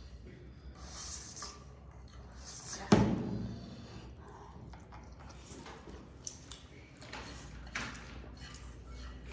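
Quiet eating sounds, with one sharp knock about three seconds in that is the loudest thing heard.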